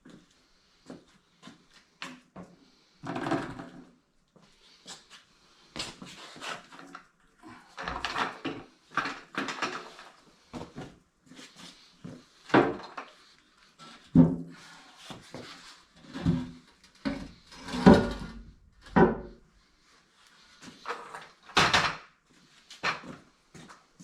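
Irregular knocks, clunks and clatters of tools and metal parts being handled, a couple dozen separate hits with short pauses between them.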